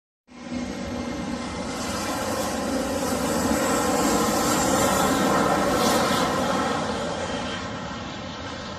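Boeing 737-500 airliner's jet engines during landing, the noise building to a peak about halfway through and then easing off slightly, with a faint high whine over a broad rush. The sound starts abruptly and cuts off suddenly at the end.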